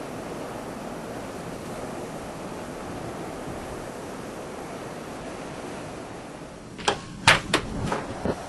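Steady wind of a snowstorm blowing, an even rushing noise. Near the end a quick run of sharp clicks starts.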